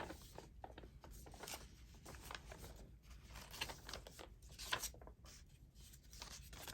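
Sheets of paper faintly rustling and sliding as they are handled and leafed through, with a few sharper strokes, the strongest about four and a half seconds in.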